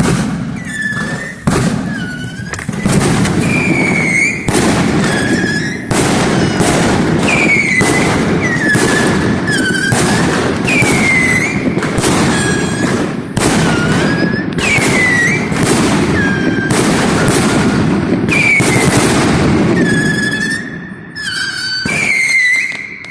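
Multi-shot consumer firework cake firing a rapid barrage of bangs, about two a second, with crackle between them and a high whistling tone that dips and rises with many of the shots. The barrage thins out near the end.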